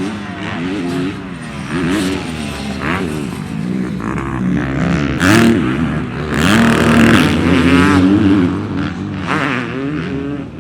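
Several dirt bike engines revving hard, their pitch climbing and dropping again and again through gear changes. The engines are loudest from about five to eight seconds in, as bikes pass close.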